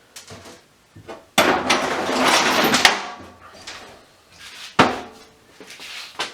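Workbench handling of scrap parts from a stripped-down VFD: a harsh scraping rustle lasting about a second and a half, then later a single sharp knock, with a few lighter clicks and taps.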